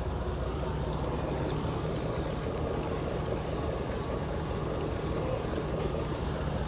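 Fishing boat's engine running steadily, a constant low hum with a rushing noise over it.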